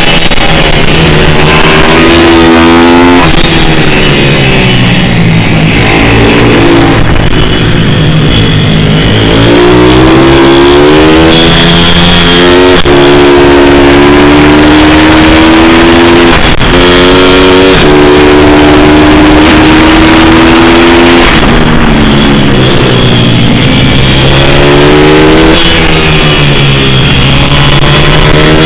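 Pit bike's small single-cylinder four-stroke engine being ridden hard, its pitch repeatedly rising under throttle and falling off, with abrupt drops in pitch at gear changes.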